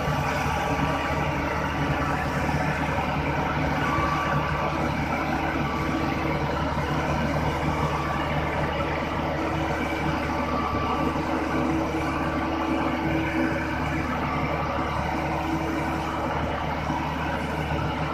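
A heavy engine running steadily at an even speed, with a constant low hum and a faint steady whine above it.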